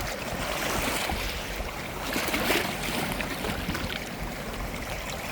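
Shallow seawater washing over a stony shore: a steady rushing noise that swells a little about halfway through.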